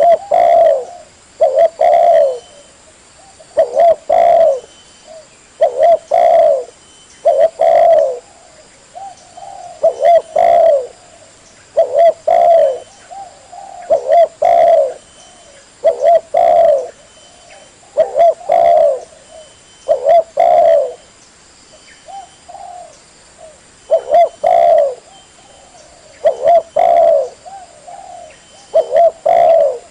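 Spotted dove (tekukur) cooing over and over, in short phrases of a few notes repeated about every two seconds.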